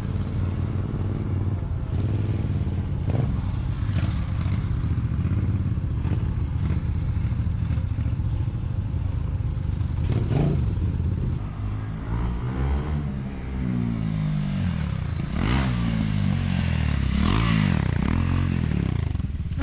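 Motorcycle engines running, the engine note rising and falling several times in the second half.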